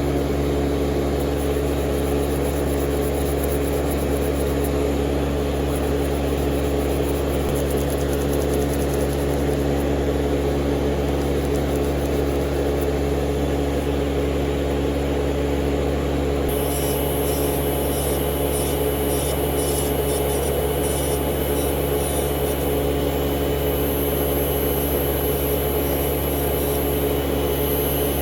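Steady electric motor or fan hum running without a break, with a faint high-pitched change joining it about two-thirds of the way in.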